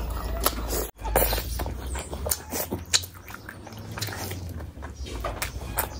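Close-miked wet mouth sounds of eating: a handful of curry-soaked biryani rice taken from the fingers, then chewing with lip smacks and sticky clicks at an irregular pace. There is a brief break about a second in.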